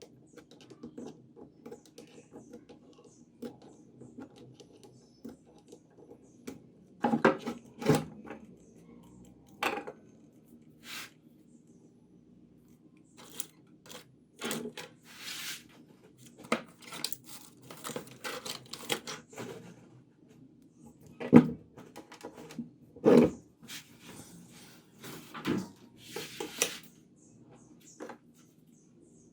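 Irregular clicks, taps and clatter of small hard objects being handled, over a low steady hum; the loudest knocks come twice in quick succession about two-thirds of the way through.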